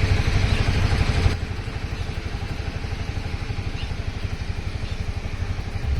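A motor running steadily with a rapid low pulsing, dropping in level a little over a second in.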